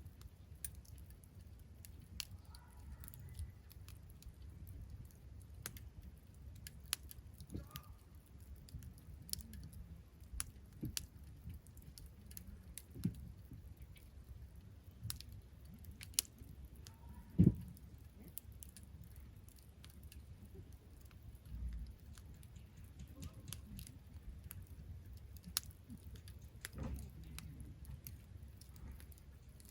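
Wood campfire crackling: scattered sharp snaps and pops at irregular intervals over a low steady rumble, with one much louder pop about seventeen seconds in.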